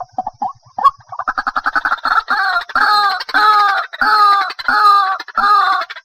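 White-breasted waterhen calling: a quick stutter of short notes builds, from about a second in, into a steady run of loud, harsh, falling notes repeated two to three times a second. This is the bird's territorial call, used as a lure recording for bird trapping.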